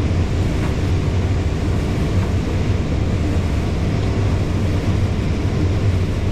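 Combine harvester running steadily while harvesting corn, heard from inside the cab as an unchanging low drone of engine and machinery.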